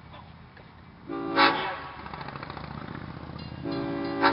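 Locomotive horn sounding a chord: a short blast about a second in, then a longer one starting near the end, over the low rumble of the train.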